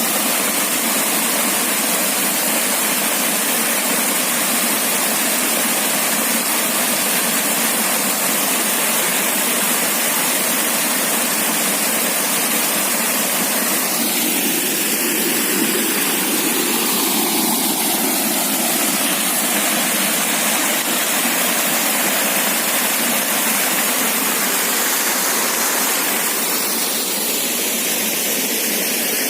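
Waterfall pouring into a rock pool: a steady, even rush of falling water that does not let up.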